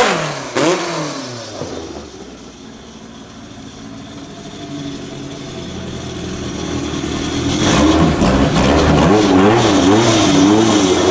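A drag-racing car engine falls in pitch and fades away over the first couple of seconds. After a quieter few seconds, a car engine comes in loudly about two-thirds of the way through, revving up and down with a wavering pitch.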